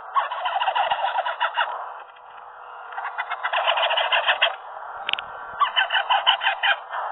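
Baby green ringneck parrot chicks begging for food during hand-feeding, giving fast, evenly pulsed calls in three bouts of a second or two each. A single sharp click comes about five seconds in.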